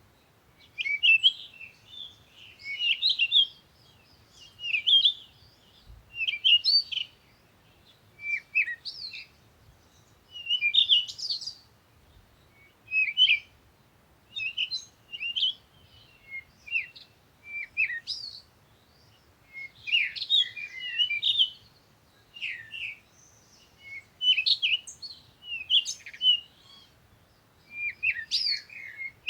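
Songbirds chirping and singing in short, high, twittering phrases, one after another with brief gaps.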